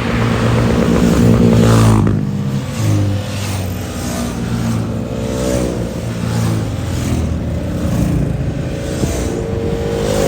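Motorcycle engines revving and accelerating, their pitch rising and falling repeatedly as the bikes pull away through the gears; loudest in the first two seconds, with a drop in pitch about two seconds in.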